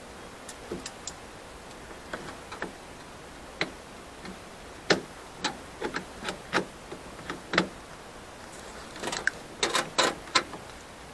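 Irregular sharp clicks and taps, bunching together near the end, from handling jumper cable clamps at a truck's dead battery.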